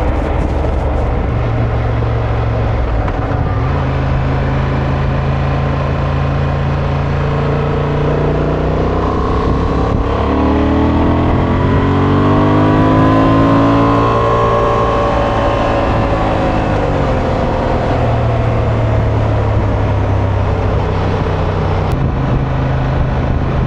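Honda Transalp's 755 cc parallel-twin engine running steadily under way, with the revs climbing and then easing off again in the middle.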